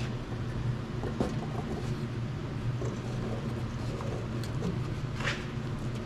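A few faint metal clicks and taps as a cast thermostat housing is worked into place on a tractor engine, over a steady low hum.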